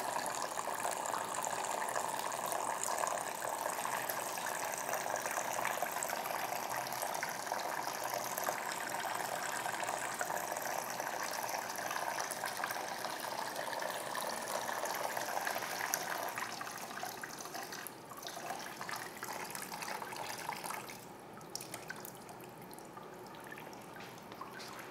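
Water trickling and dripping steadily from the small syringe-needle nozzles of a homemade Kelvin water-dropper generator. It grows quieter about sixteen seconds in and fainter still from about twenty-one seconds.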